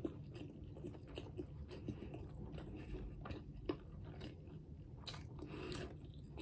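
Faint chewing of a mouthful of sub sandwich with the mouth closed: small, irregular clicks of bread, lettuce and pickles being chewed.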